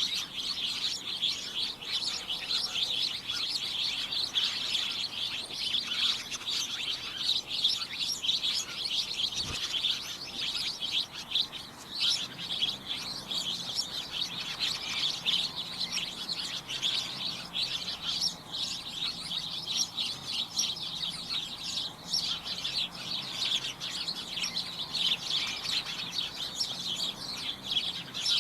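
A flock of small birds chirping and tweeting together: a dense, cacophonous chorus of short, high chirps that overlap without a break.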